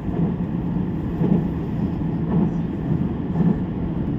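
Steady low rumble of a train running, heard from inside the carriage.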